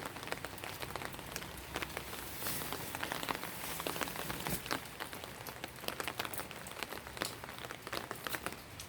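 Steady rain falling, with many irregular drops pattering and ticking on a nearby surface.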